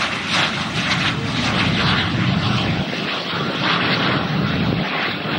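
Jet engines of L-39 Albatros jet trainers flying past in a formation display: a loud, steady rushing engine noise with low rumble beneath.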